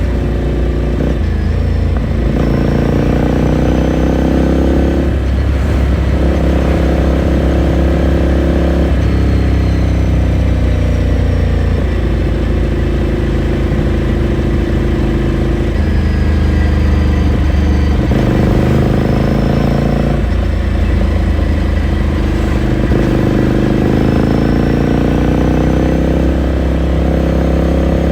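2018 Ducati Scrambler Sixty2's air-cooled 400 cc L-twin engine and exhaust, heard onboard while riding. It pulls up through the gears several times, the pitch rising and then dropping at each shift, with stretches of steady cruising and easing off in between.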